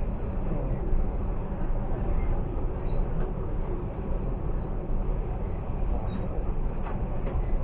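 A passenger train in motion: a steady running noise, strongest in the low end, that holds at an even level throughout.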